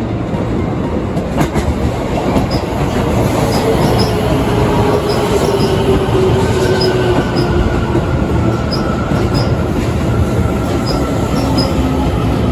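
Keio Electric Railway train running on the rails: a steady rumble with a pitched whine that slowly falls over several seconds, and short high squeaks coming again and again.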